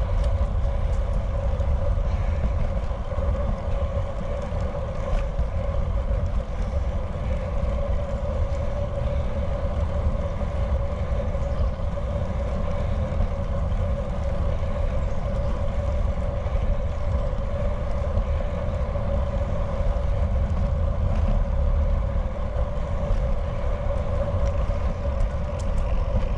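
Wind buffeting the microphone of a bike-mounted action camera while riding, a steady low rumble with a constant hum running under it.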